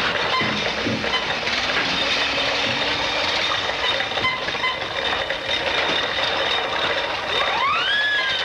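Steady mechanical noise on an old film soundtrack. Near the end comes a whistle-like tone that rises quickly and then slowly falls.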